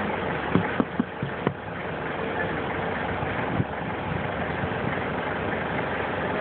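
Vehicle engine idling steadily, with several sharp clicks or taps about a second in and one more a little past the middle.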